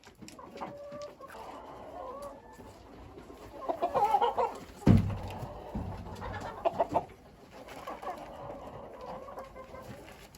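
Chickens clucking, with a cluster of louder calls about four seconds in. A single sharp thump just before the five-second mark is the loudest sound.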